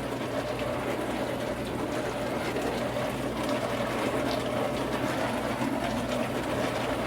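Adamson A30 countertop dishwasher running its wash cycle: a steady pump hum with water spraying inside the closed tub.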